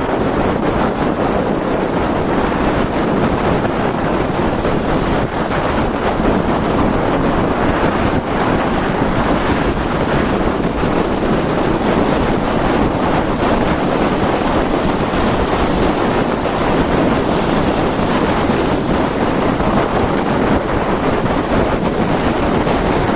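Strong wind blowing hard across the microphone, a steady loud rushing noise, with water rushing along the board while windsurfing.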